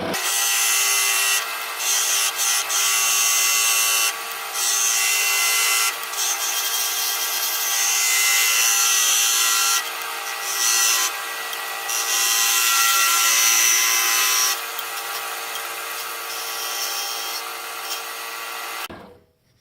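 Wood lathe running while a turning tool cuts the spinning wooden pipe stem to reshape its taper: a steady motor hum under a hissing scrape that swells and eases several times as the tool is pressed in and let off. The sound cuts off shortly before the end.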